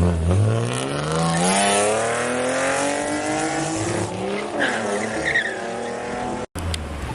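A car engine accelerating hard, its pitch climbing steadily for about four seconds and then holding, until the sound cuts off abruptly near the end.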